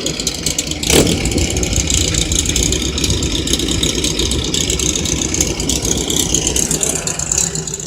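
A car engine running steadily at idle close by, with one sharp knock about a second in.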